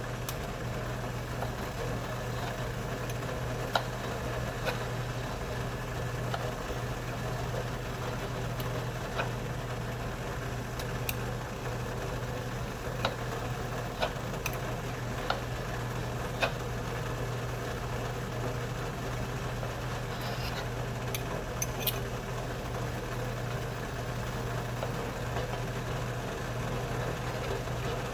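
Steady low mechanical hum from a kitchen appliance, with scattered sharp knife taps on a cutting board as sausage is sliced, irregular, about one every second or two.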